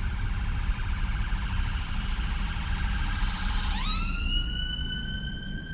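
Emergency vehicle siren over low traffic rumble: a fast warbling yelp, then about four seconds in it sweeps sharply up into a slow, steadily rising wail.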